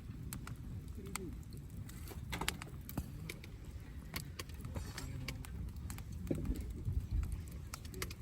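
Wood campfire crackling, with many irregular sharp pops and snaps of burning wood over a steady low rumble.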